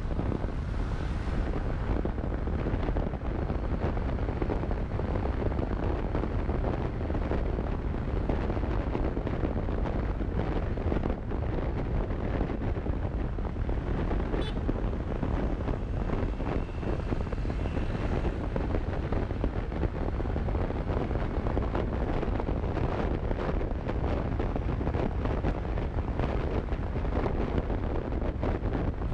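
Steady wind rush buffeting the microphone of a moving motorcycle, with the bike's engine running underneath.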